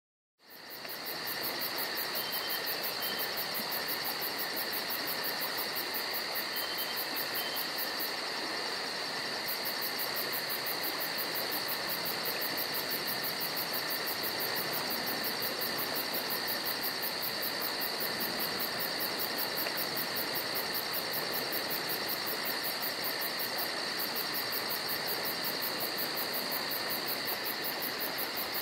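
Chorus of summer insects, crickets trilling steadily: a fast, even, high-pitched pulsing over shrill held notes. It fades in over the first second and then runs on unchanged.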